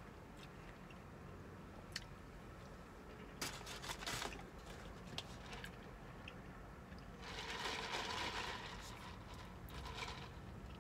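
Close-miked eating: chewing and crunching of food, with scattered clicks and two louder crackly stretches, a short one about three and a half seconds in and a longer one from about seven to nine seconds in.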